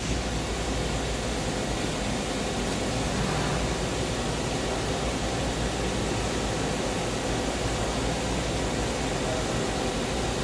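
Steady hum and hiss of running machinery, even throughout with a strong low rumble under it.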